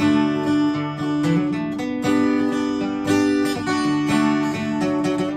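Acoustic guitar strumming chords, with a new strum about every second.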